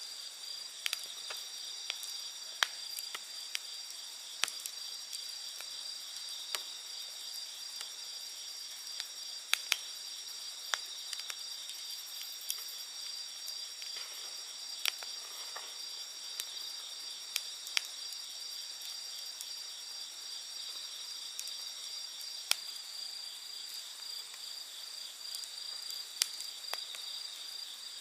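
Wood campfire crackling, with sharp pops scattered irregularly, a few of them much louder than the rest. Behind it, a steady high trilling chorus of night insects.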